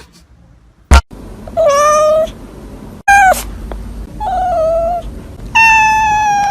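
Domestic cat meowing loudly four times, the last meow long and held steady, with a sharp click about a second in.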